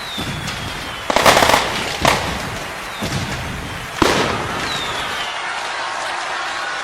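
Fireworks going off: a loud cluster of bangs about a second in, then single bangs roughly once a second, with a few thin falling whistles among them.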